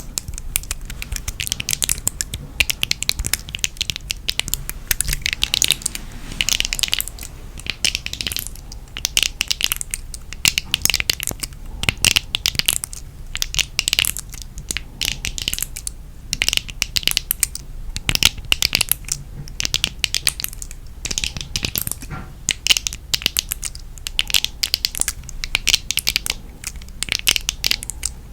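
Close-miked ASMR handling of the 'Active Brain' trigger item: dense, rapid crackling and clicking in irregular bursts, with short pauses between them.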